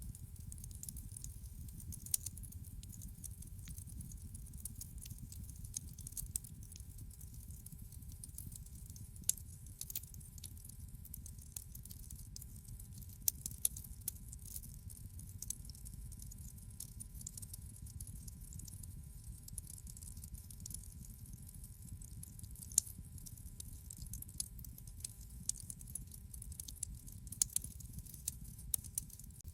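Wood fire crackling in a fireplace: frequent irregular sharp pops and snaps over a low, steady rumble of flames.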